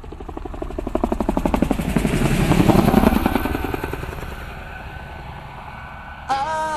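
Helicopter rotor chopping in a steady rhythm, growing louder to a peak about halfway through, then dropping in pitch and fading away like a pass overhead. Music begins near the end.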